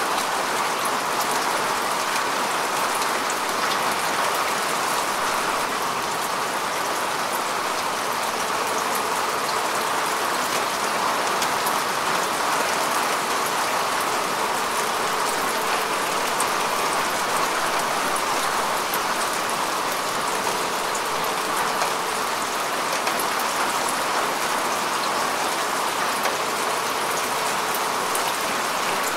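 Steady rain falling on earth and grass, a dense even patter of drops with no let-up.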